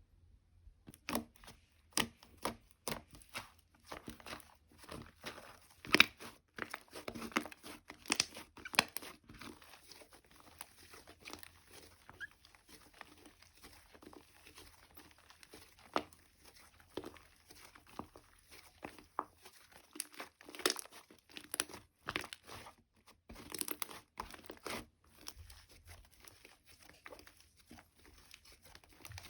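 Slime being squeezed, stretched and poked by hand, making irregular crackling clicks and pops.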